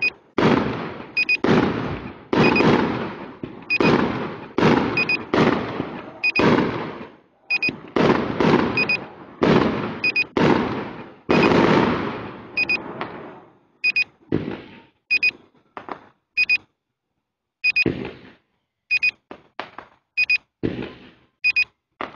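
Fireworks going off in quick succession: sharp bangs with crackling tails, close together for the first half, then fewer and shorter with silent gaps between. A short electronic double beep repeats about every second and a quarter throughout.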